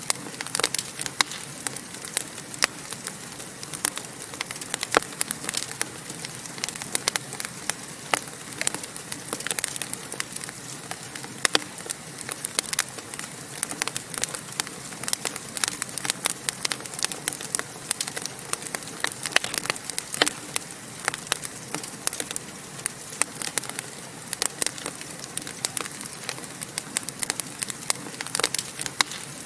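Wood fire burning in a fireplace, crackling with many sharp, irregular pops over a steady hiss.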